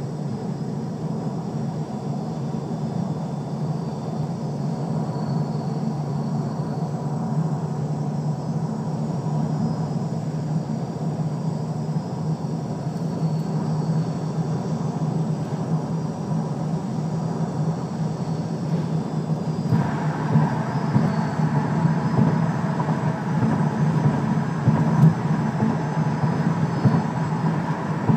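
Lexus LS430 making a whine over a steady low drone from the running car. About twenty seconds in, a broader, higher noise joins in and the level rises.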